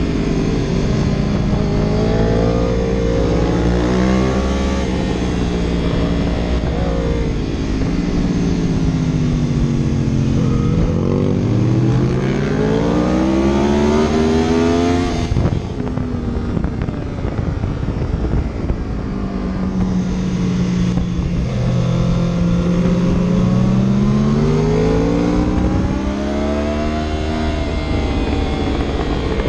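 A vehicle engine being driven hard: it revs up, drops at each gear change and climbs again. There is a sharp fall in pitch about halfway through, then a quieter, lower stretch before it pulls up again.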